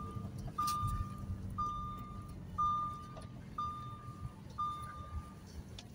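Electronic beeper sounding a flat high-pitched tone in even beeps about once a second, six times, over a faint low hum.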